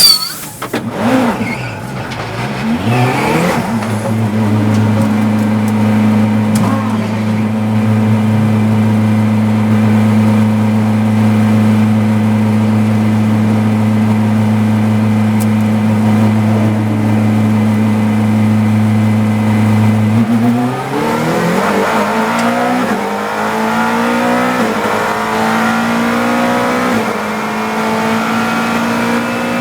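A GT3 race car's engine, heard from inside the cockpit. It revs up as the car pulls away, then holds a steady, unchanging note for about sixteen seconds. About twenty seconds in it accelerates hard, the pitch climbing and dropping back through several upshifts.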